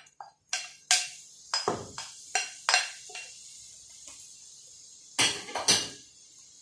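Cooking utensil knocking and clinking against a pan or bowl while the spring-roll filling is stirred: a run of sharp, irregular knocks over the first three seconds and two more near the end, over a steady faint hiss.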